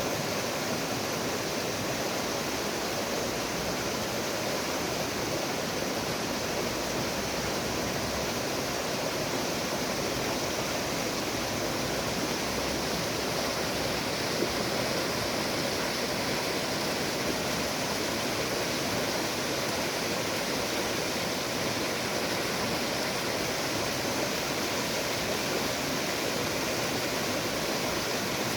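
Steady rush of flowing river water, even and unbroken throughout.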